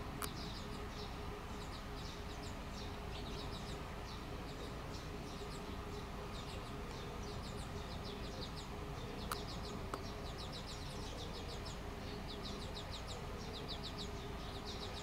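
Small birds chirping in quick high trills of short notes, repeated throughout, over a steady low background hum, with a few sharp clicks.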